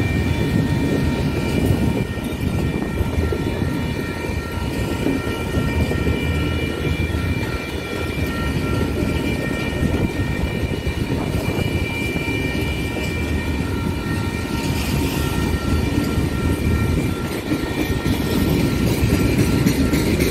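Freight cars, autoracks and boxcars, rolling past on the rails: a steady rumble of wheels and cars, with several steady high-pitched tones over it that fade out about three quarters of the way through.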